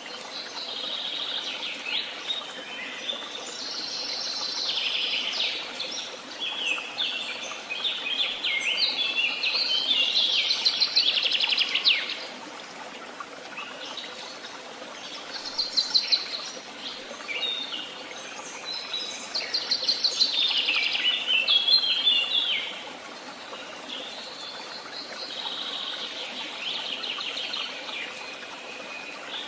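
Songbirds singing: long phrases of rapid chirps and trills, loudest in a run that ends about twelve seconds in, then shorter bursts with brief pauses, over a steady background hiss.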